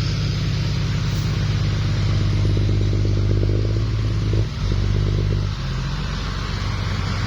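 Heavy diesel engine of the recovery machinery running steadily under load, dipping briefly about four and a half seconds in, then settling to a quieter, lower run about a second later.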